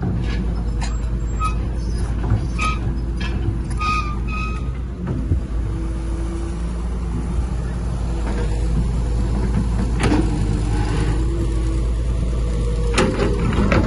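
Heavy diesel earthmoving machinery running steadily with a deep rumble, with a few short high reversing-alarm beeps in the first few seconds and sharp knocks about ten seconds in and near the end.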